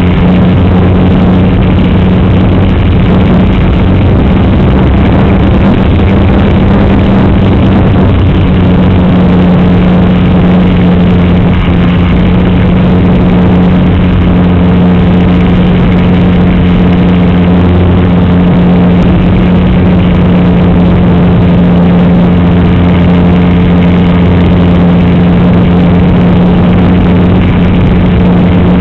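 RC model aircraft in flight, heard from a camera on board: a loud, unchanging hum from the motor and propeller over rushing airflow.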